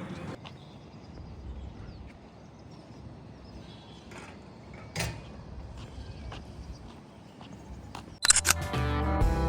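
Faint outdoor background with a few small clicks and one sharper click about halfway through, then guitar music starting abruptly near the end.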